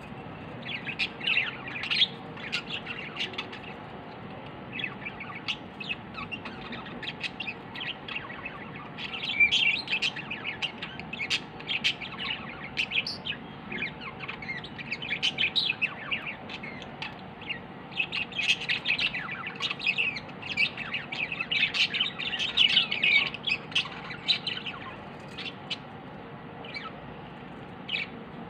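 Small pet bird chirping in quick runs of short, high chirps, busiest through the middle and thinning to a few scattered chirps near the end.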